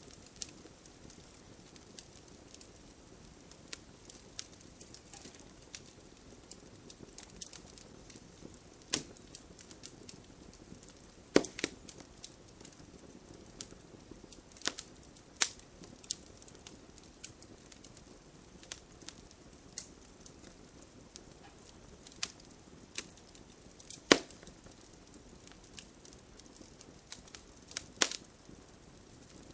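Wood fire crackling in a fireplace: irregular sharp pops and snaps over a soft, steady hiss, with now and then a much louder snap.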